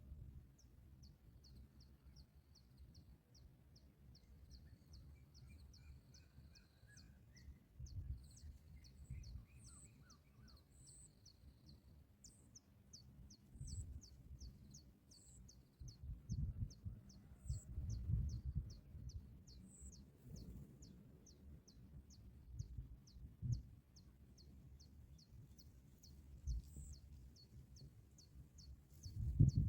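A small bird repeating a short, high, downward-slurred chirp about twice a second, with a few higher notes and brief trills in the first third. Bursts of low rumble rise and fall underneath.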